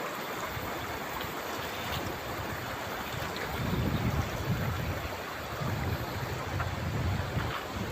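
Steady rush of a flowing river, with irregular low rumbling joining in from about halfway through.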